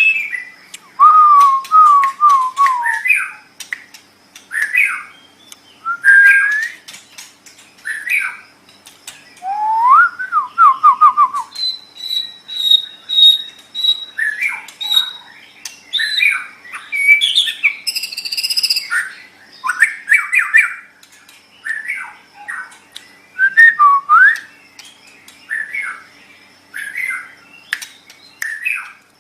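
White-rumped shama singing: a stream of short, varied whistled phrases with brief pauses between them, mixing sliding notes, quick runs of repeated notes, and a held high note of about two seconds near the middle.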